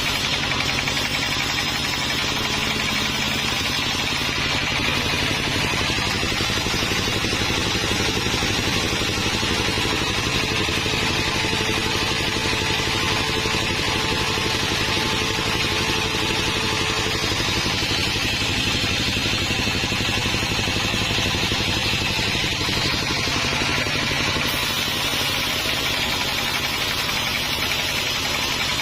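Sawmill machinery running steadily, a continuous engine-like drone with fine rapid pulsing and a steady hiss.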